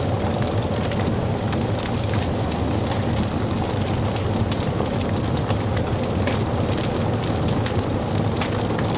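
Wood fire burning: a steady low rumble of flames with frequent small crackles and pops from the burning wood.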